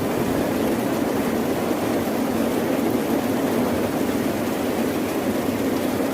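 Steady rain, an even, dense wash of noise with a strong low rumble underneath and no single drops or surges standing out.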